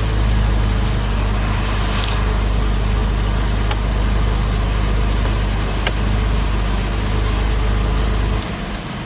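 Porsche Boxster 986's M96 2.5-litre flat-six engine idling steadily after a rev. Its even low note drops away about eight seconds in.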